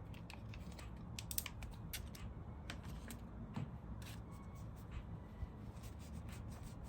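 Scattered light clicks and rustles of a small rubber gasket and its plastic package being handled, over a low steady hum.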